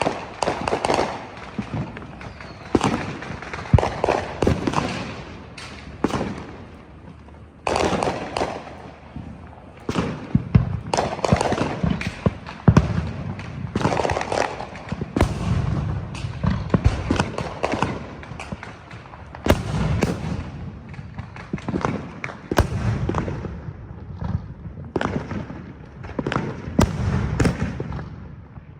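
Fireworks and firecrackers going off all around: a near-continuous, irregular volley of sharp bangs and crackling, with some deeper booms mixed in.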